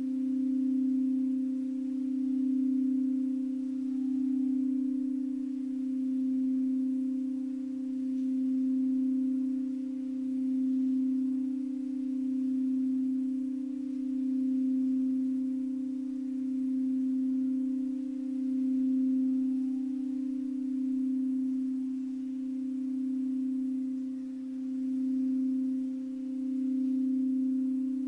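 A singing bowl holding one steady low tone with a faint higher overtone. Its loudness swells and fades about every two seconds.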